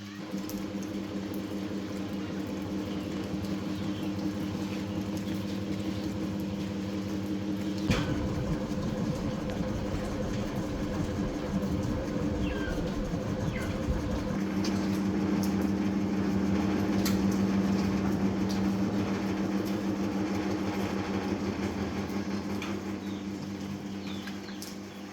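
Electric motor of a rice-grain cleaning fan running with a steady hum. About a third of the way in, a knock comes and the sound turns rougher and noisier for several seconds before settling back to the smooth hum, which tapers off near the end.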